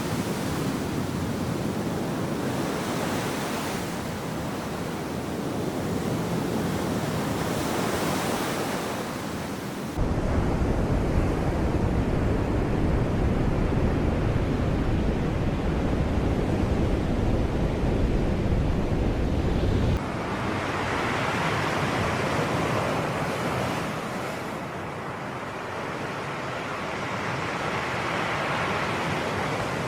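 Sea waves washing and breaking on the shore, with the hiss rising and falling as the waves come in. About ten seconds in, a louder, deep low rumble cuts in abruptly and stops just as suddenly ten seconds later.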